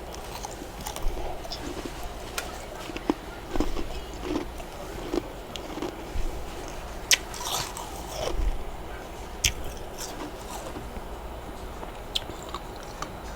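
Close-up eating of freezer frost: irregular crisp crunches and chews of packed frost, with the sharpest crunch about seven seconds in.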